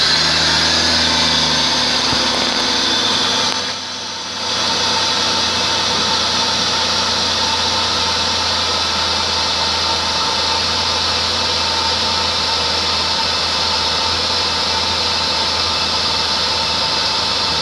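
A GM 3800 Series II 3.8-litre V6 running at a steady idle, a low hum with a hiss over it. The level dips briefly about four seconds in.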